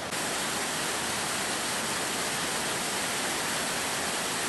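Flood-swollen river rushing in a steady torrent: an even, unbroken rush of water. It cuts in slightly louder a moment in.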